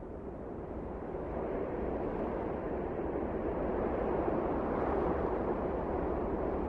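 Wind blowing in a steady rushing gust that swells gradually, loudest about five seconds in.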